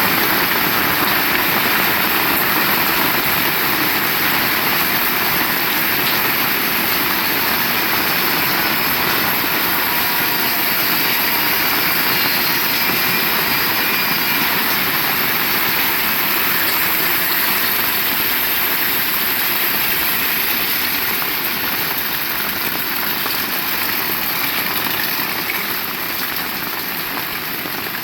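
Heavy rain falling as a steady, loud hiss, easing slightly near the end.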